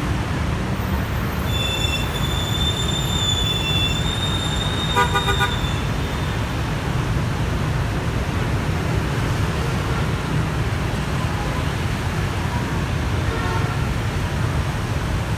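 Street traffic at a bus stop: a steady rumble of vehicle engines and tyres, with a high steady whine for a few seconds and a short horn honk about five seconds in.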